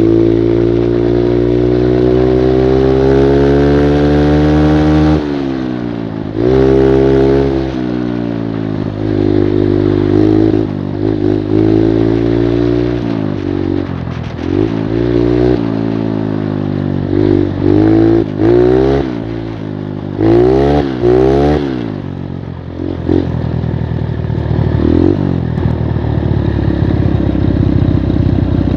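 85cc Skyteam Monkey mini-moped's single-cylinder four-stroke engine under way. The revs climb slowly for about five seconds, then rise and fall over and over as the throttle is opened and closed, and settle into steadier, rougher running near the end. The clutch slips badly.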